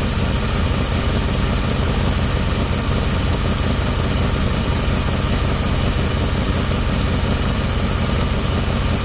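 2001 Dodge Ram gasoline engine idling steadily while it warms up; the truck has a leaking exhaust manifold.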